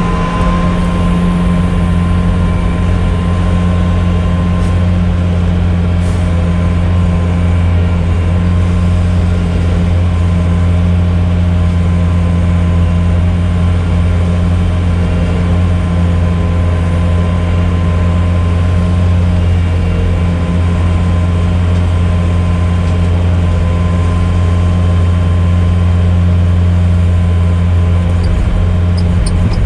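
Engine of a compact tracked loader running steadily with a constant low hum, heard from close by.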